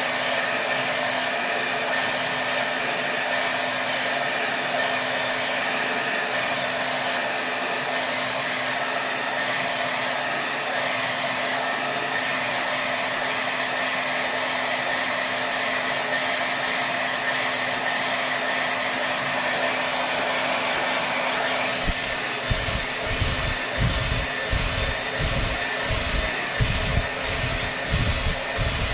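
Hair dryer running continuously at full power: a steady rush of air with a constant motor hum. About two-thirds of the way through, an irregular low pulsing joins it, several beats a second.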